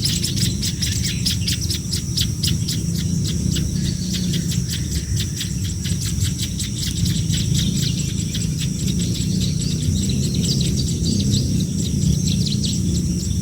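Hungry nestling birds begging: rapid, repeated high chirps, about six a second, without a break.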